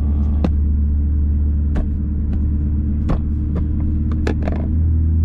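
Infiniti Q50 V6 with resonated lower downpipes, heard from inside the cabin while driving: a steady low exhaust drone with several irregular sharp rattles. The driver puts the rattles down to a door panel shaken by the freer-flowing exhaust. The drone gets a little louder near the end.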